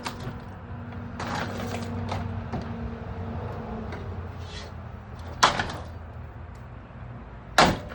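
Old Evergo ceiling fan's motor humming while it runs, with two sharp bangs about two seconds apart near the end as the fan is struck.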